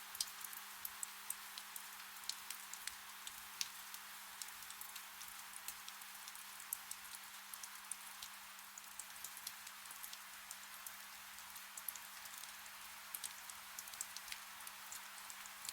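Soft, steady rain hiss with frequent irregular drop ticks, over a faint steady low hum.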